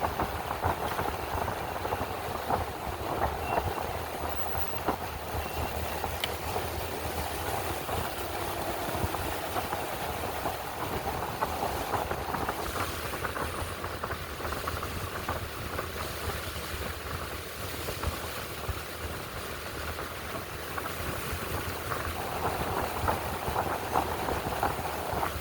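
A minibike's small gasoline engine running steadily on the move, mixed with wind rush and rattling.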